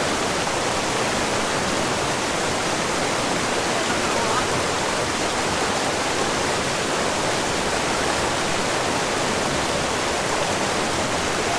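Steady rush of falling water from a waterfall, an even hiss of noise with no breaks.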